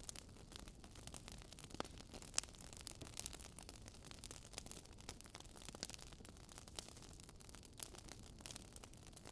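Wood fire crackling: irregular small pops and snaps over a faint steady hiss.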